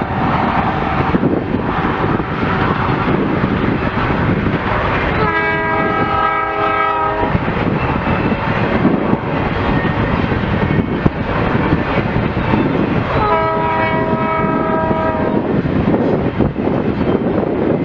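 CN freight locomotive's air horn sounding two long blasts about eight seconds apart, each held for about two seconds. Between and under them runs the steady rumble and rush of the train rolling past.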